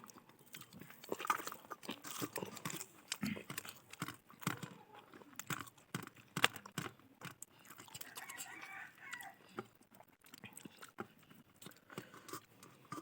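A person chewing and biting fried rice and fried egg close to the microphone, in many short, irregular clicks.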